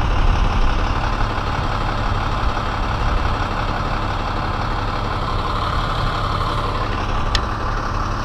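A heavy engine idling steadily, with one brief sharp click about seven seconds in.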